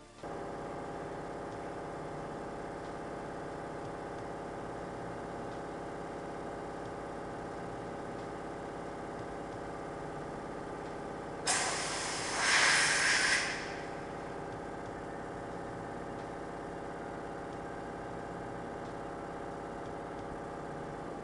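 Compressed air rushing out in one loud blast of about two seconds, about halfway through, as a truck tire is seated and inflated with a bead bazooka and air line. Under it, a steady machine drone runs throughout.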